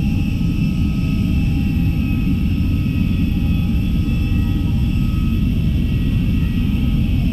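Airbus A321-211 cabin noise: a steady, loud low rumble of the CFM56 jet engines and airflow, with faint steady whining tones over it.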